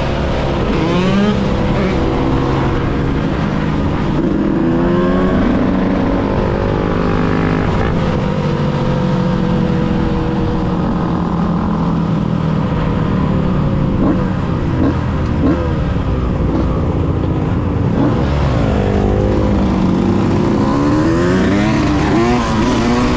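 Yamaha YZ125 two-stroke dirt bike engine running under way, its pitch rising and falling again and again as the throttle is opened and closed.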